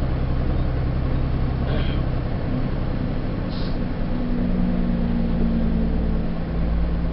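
Semi truck's diesel engine running steadily inside the cab, with a deep drone whose note shifts about four seconds in.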